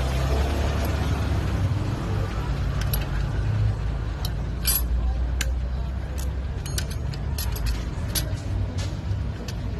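Sharp metallic clinks and taps, several of them in the second half, as metal tools and transmission parts are handled, over a steady low rumble.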